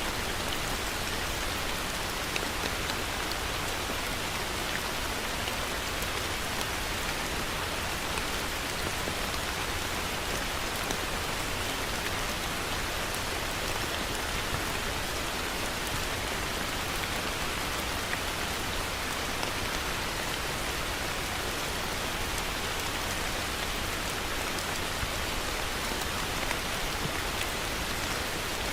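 Heavy rain falling steadily on a surface, an even hiss with scattered drop ticks throughout.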